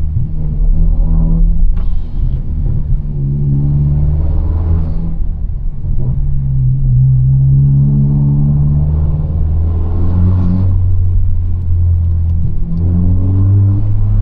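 2022 Honda Civic Si's turbocharged 1.5-litre four-cylinder accelerating hard through the gears. The engine note climbs in repeated pulls, broken at the shifts about 2, 5 and 10 seconds in, with short rushes of turbo air at those breaks.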